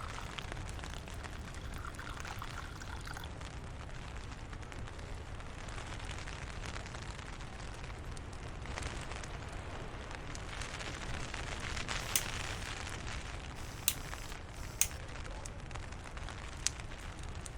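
Steady rain with a low wind rumble, swelling slightly midway. In the second half come four sharp clicks or taps.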